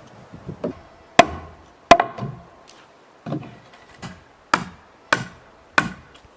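Hammer blows on wooden boards during rough carpentry, about seven strikes. Two early blows ring briefly, then five come steadily about every half second.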